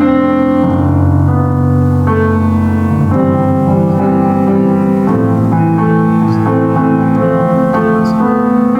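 Solo piano playing a slow piece in held chords, a new chord about every second with a melody on top.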